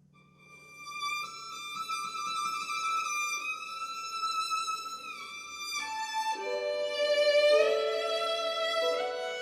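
Background music led by a solo violin playing slow, long-held notes that slide from one pitch to the next, with lower sustained notes joining about six seconds in.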